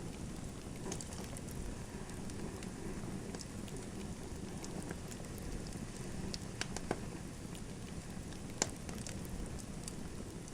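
Wood fire crackling in a fireplace: a steady low rush of burning with scattered small pops, a couple of sharper ones past the middle and one loudest crack late on.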